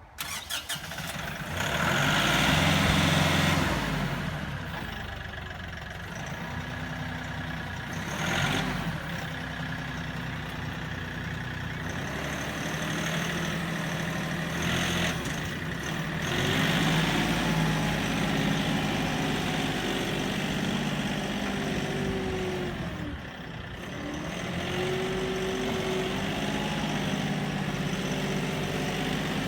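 Kioti NX4510 tractor's turbo diesel engine running as the tractor is driven, getting louder about a second in, then rising and falling in pitch several times as it speeds up and slows.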